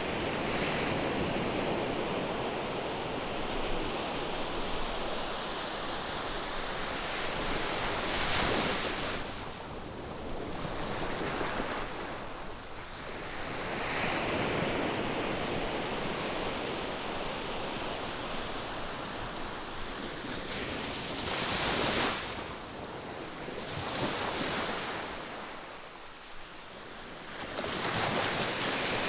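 Ocean waves breaking and washing on a sandy beach, a steady surf noise that swells with each wave and eases between them, with some wind on the microphone.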